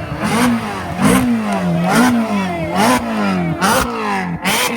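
A sports car engine revved in repeated quick blips, about one a second, each rising sharply and falling back, with sharp cracks at the top of the last two.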